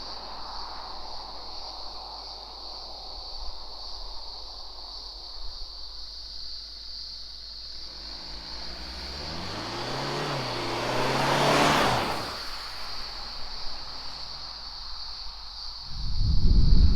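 2021 Kia Sorento's 2.2-litre turbo-diesel four-cylinder accelerating, its engine note rising in pitch and growing louder to a peak about twelve seconds in, then fading away. A sudden loud rumble starts near the end.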